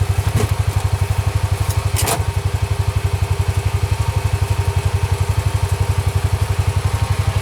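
An engine idling steadily with an even, rapid low pulse of about ten beats a second, with a short click about two seconds in.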